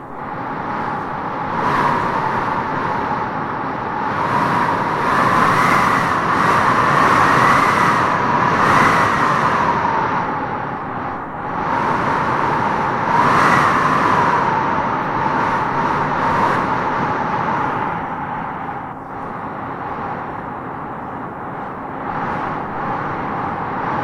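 Howling wind gusting through trees, swelling and easing in waves, with its strongest gusts in the first half.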